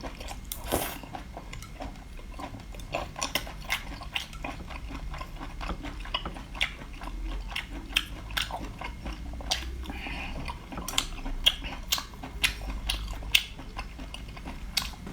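A person chewing and biting food close to the microphone: many short, irregular crunches and wet clicks.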